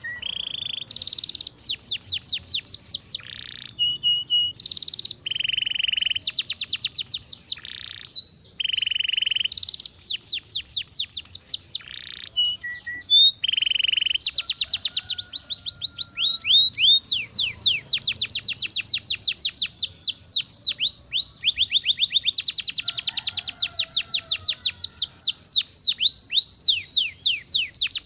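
Domestic canary singing: rapid trills of quickly repeated falling notes mixed with short steady whistled phrases, broken by brief pauses at first. From about halfway through, the song becomes one near-unbroken fast trill.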